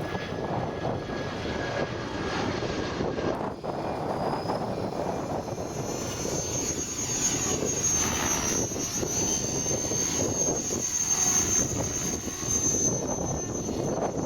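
Align T-REX 500 ESP electric radio-controlled helicopter in flight: a high motor-and-rotor whine that rises about four seconds in and then holds high, over a rushing noise of wind on the microphone.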